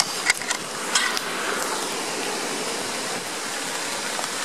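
Heavy rain falling, a steady hiss, with a few sharp taps in the first second or so.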